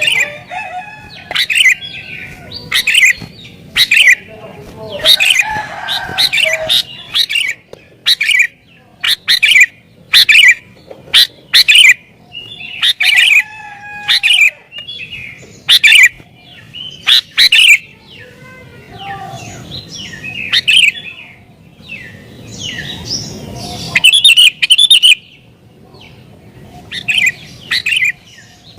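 Sooty-headed bulbul (kutilang) singing excitedly, with short, loud, chirpy phrases repeated about once a second and brief pauses between them.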